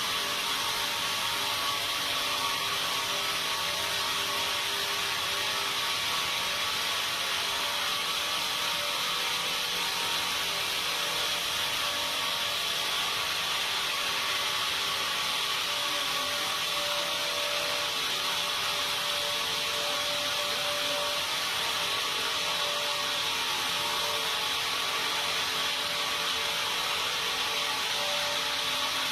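Sawmill saw running steadily, a continuous machine noise with a few steady tones in it.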